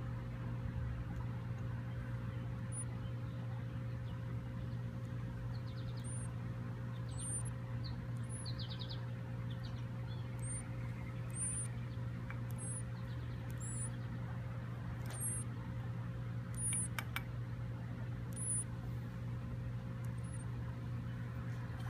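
A nestling bird gives a series of short, very high-pitched chirps, about one a second from around six seconds in, over a steady low hum.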